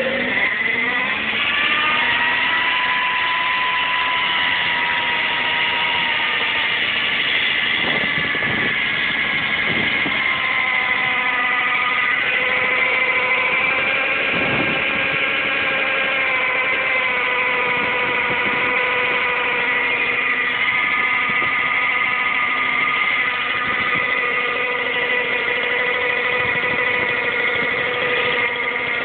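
1977 Kreidler LF's 50cc single-cylinder two-stroke engine idling steadily just after a cold start. Its pitch rises over the first second as it catches, then holds with a slight wander.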